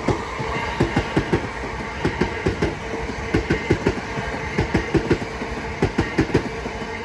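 Southeastern Class 375 Electrostar electric multiple unit passing through at speed, its wheels clacking over rail joints in a rapid, irregular run of sharp clicks over a steady hum.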